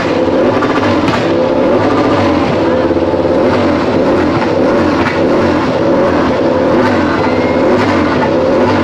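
Aprilia RS-GP25 MotoGP bike's V4 racing engine running and being revved, its pitch wavering up and down, over a crowd's voices.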